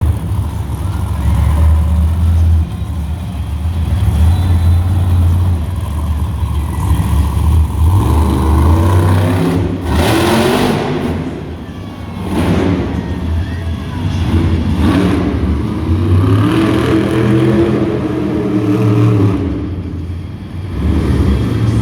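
Monster truck engine revving hard, its pitch climbing and falling again and again, with short loud rushes of noise about ten, twelve and fifteen seconds in.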